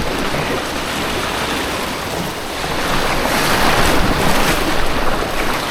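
Rushing white water of an artificial slalom course, a steady loud rush that swells about three seconds in.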